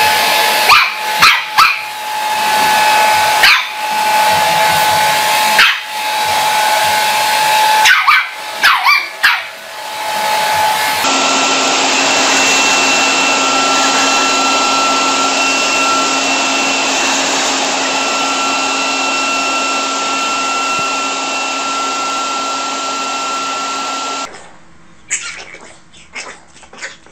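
A dog barking several times over a steady motor hum, followed by a long steady machine hum with a low drone and a higher whine, then quieter scattered noises near the end.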